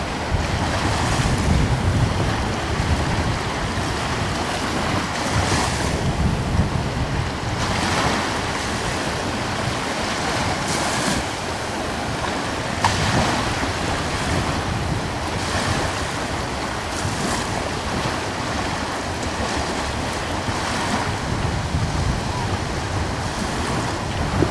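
Gentle ocean waves washing in every few seconds over a steady sea hiss, with a light wind rumbling on the microphone.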